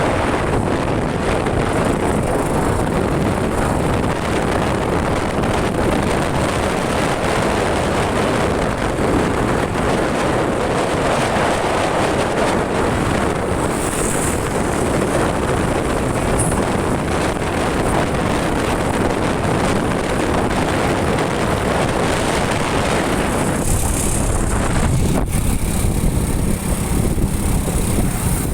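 Wind rushing over the microphone while riding a motorcycle, mixed with the bike's engine and road noise. The higher rush thins out near the end.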